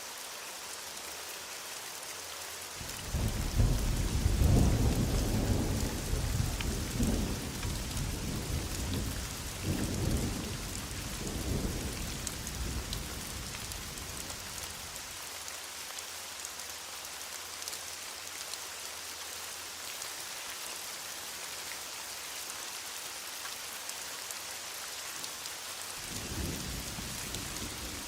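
Heavy rain falling steadily, with a long roll of distant thunder starting about three seconds in, swelling several times before fading out by the middle, and another rumble of thunder starting near the end.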